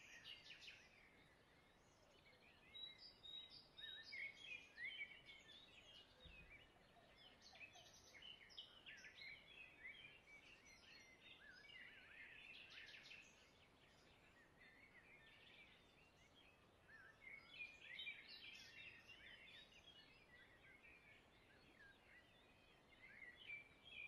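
Faint birds chirping and calling: many short, quick calls, coming in busier spells around a few seconds in, around the middle, and again later.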